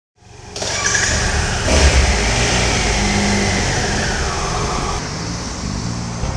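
Motorcycle engine running under the rider as the bike pulls away and rides off, revving up about two seconds in and then settling as the pitch falls.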